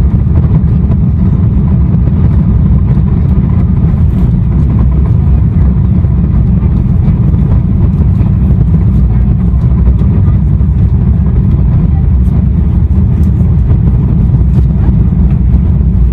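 Airbus A340-600 airliner during takeoff, heard on board: a loud, steady low rumble of its four engines and the rushing air, with no distinct events.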